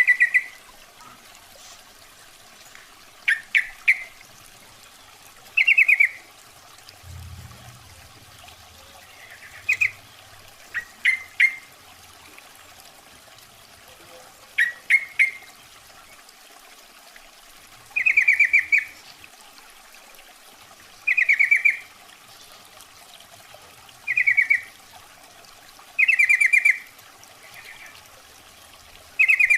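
Yellow-vented bulbul (trucukan) calls: short, rapid chattering bursts about every two to three seconds, some of them quick double notes, over a steady hiss. It is the female's call, used as a lure to draw in males.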